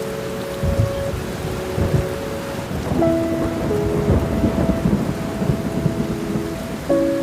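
Steady rain falling, with low rumbles of thunder. Soft held music notes play over it and change chord about three seconds in and again near the end.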